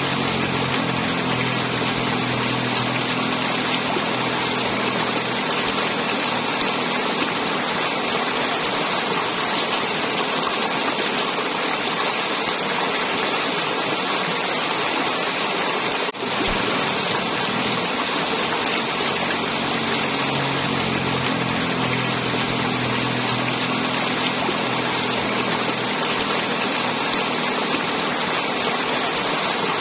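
River water flowing and gurgling in a steady rush, with a brief dropout about halfway through.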